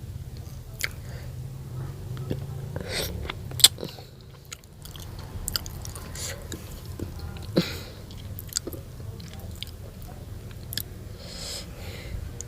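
Close-miked chewing and biting of food, with irregular sharp crunchy bites; the loudest bites come about three and a half and seven and a half seconds in.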